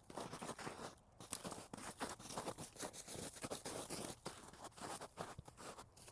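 Footsteps crunching through brush, with a dense run of irregular crackling and rustling.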